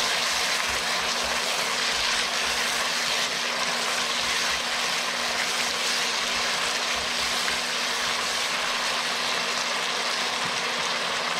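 Onions and peppers frying in oil with ketchup and soy sauce, a steady sizzle, over a faint steady low hum.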